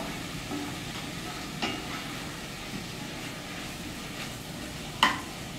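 Salt cod and onions sizzling steadily as they sauté in a cast-iron pot, stirred with a wooden spoon. A light knock about one and a half seconds in and a sharper, louder knock near the end.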